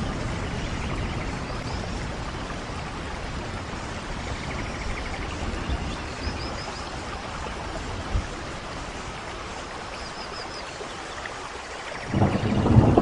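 Steady rain pouring down, then a low rumble of thunder rising near the end.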